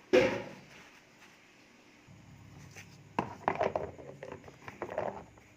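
Tissue paper being handled and pressed over green chillies in a plastic container: a sharp rustle at the start, then irregular scratchy rustling and rubbing about halfway through.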